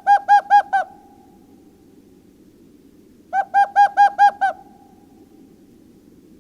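A bird calling: two bouts of five or six quick, evenly spaced clear notes, about three seconds apart, over a steady low background hiss.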